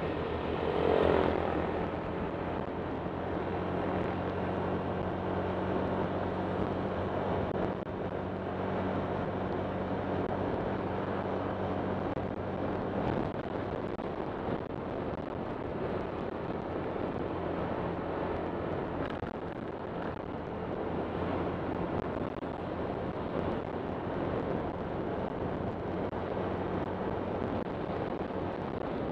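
Honda Click 125 scooter's single-cylinder engine running steadily under way, with a continuous rush of road noise. About a second in, a brief louder swoosh falls in pitch.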